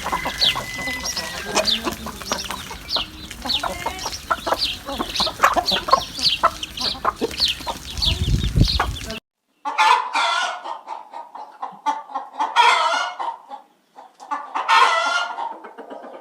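Chickens clucking among many short high chirps. After a brief break about nine seconds in, a rooster crows loudly a few times.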